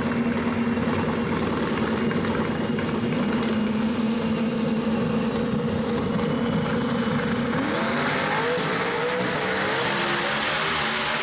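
Drag car's engine running at steady revs, then climbing steadily in pitch over the last three or four seconds as it accelerates.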